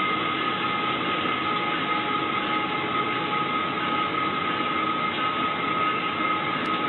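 Train running through a level crossing: steady, loud rail noise with a steady high tone held over it.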